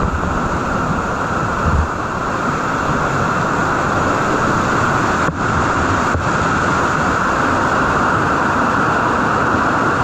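River rapids rushing steadily over a drop, a loud unbroken roar of whitewater.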